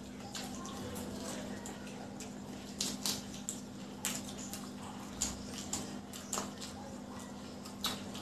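Eating sounds: chewing and a series of short, wet mouth smacks as breaded egg devils are bitten and chewed, the sharpest from about three seconds in. A steady low hum runs underneath.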